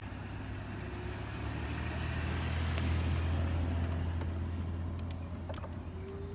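A car passing by: a low rumble with tyre noise that swells to its loudest about halfway through, then fades away.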